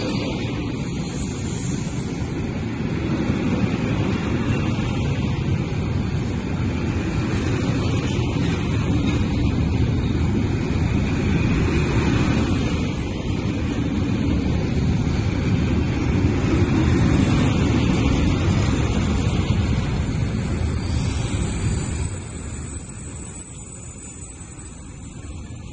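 Intermodal freight train of container flat wagons rolling past alongside the platform, a steady rumble that grows quieter over the last few seconds.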